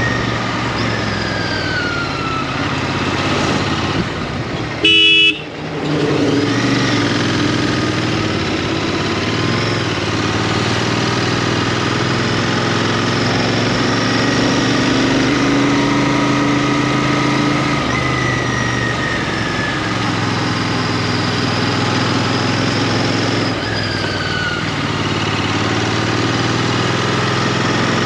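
Royal Enfield Interceptor 650's parallel-twin engine running steadily on the move. A vehicle horn honks once, loudly and briefly, about five seconds in.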